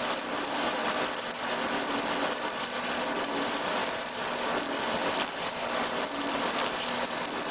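Wood milling and turning machine for log columns running with a steady, dense mechanical noise and a faint underlying hum.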